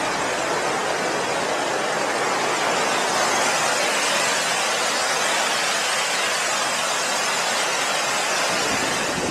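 Steady rushing of water pouring over a small river weir, an even hiss with little low rumble, cutting off suddenly at the end.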